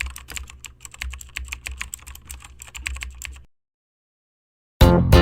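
Quick, irregular clicking and clacking of clothes hangers being pushed along a rack, over a low hum; it cuts off abruptly about three and a half seconds in, and guitar music starts near the end.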